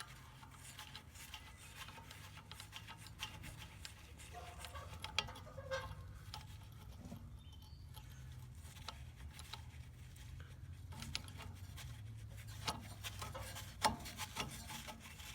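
Faint clicks and scraping of metal on metal as a blade/wheel puller is handled and its screws are worked into a rusted blower wheel hub, over a steady low hum.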